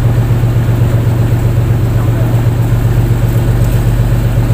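Fishing boat's engine running steadily: a loud, even low hum with a fast regular pulse.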